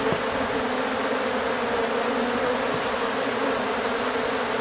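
A honeybee swarm buzzing steadily, the massed hum of many bees as the swarm is being hived.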